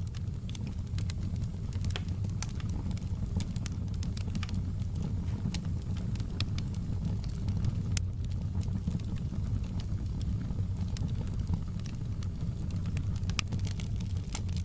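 Wood fire crackling in a fireplace: a steady low rumble of flames with frequent sharp snaps and pops scattered irregularly throughout.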